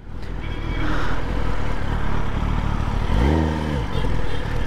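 Kawasaki ZX-10R inline-four on the move through an aftermarket Leo Vince slip-on exhaust, heard over a steady rush of wind, with a brief rise and fall in pitch about three seconds in.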